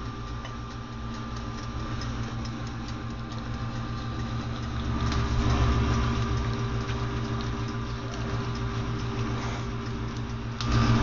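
Toaster oven running with a steady electrical hum, with a louder stretch of low rumbling noise about halfway through.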